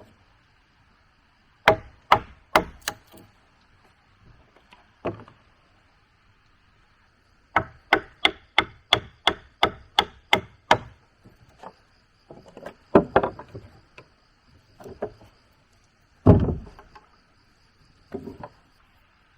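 A tool striking wood in sharp knocks, some in a quick run of about three blows a second, with a few heavier blows near the end.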